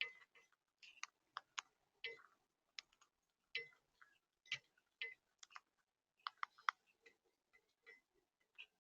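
Birds pecking at a seed feeder: irregular, sharp, faint clicks and taps of beaks striking the feeder and cracking seed, with a quick run of three taps near the end.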